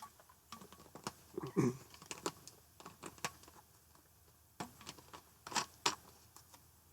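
Handling noises: scattered light clicks, taps and rustles as a comic or package is moved about, with a short low sound about a second and a half in.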